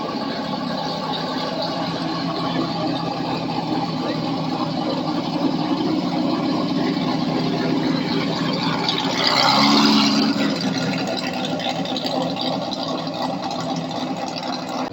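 Car engines running with a steady low drone. About nine seconds in, a louder rush of engine noise lasts about a second.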